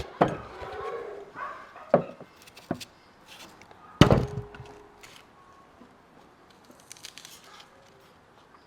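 A few sharp knocks or thuds, the loudest about four seconds in, then quieter scattered ticks.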